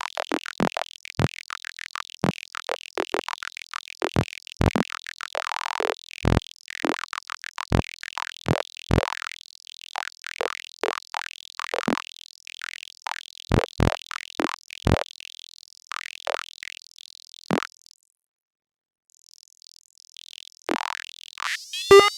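Synthesized robotic sound effect: a fast, irregular run of short electronic clicks and blips that stops about eighteen seconds in. After a brief silence, a short electronic chirp sweeps in pitch near the end.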